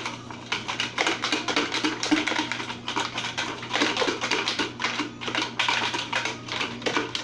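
A lidded container being shaken, the drawing entries inside rattling with rapid, irregular clicks, over a steady low hum.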